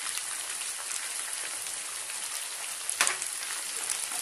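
Onions, capsicum and green chillies sizzling in oil in a frying pan, a steady crackling hiss, with a single sharp knock about three seconds in.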